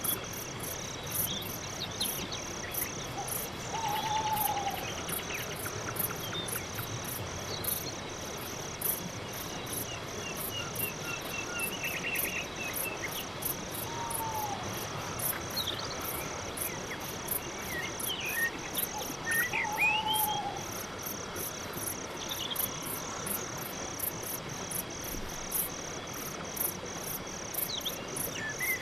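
Night chorus of crickets and other insects: a continuous high trill under a regular chirping at about two to three chirps a second. Scattered short whistled and sweeping calls, probably birds, come and go above it.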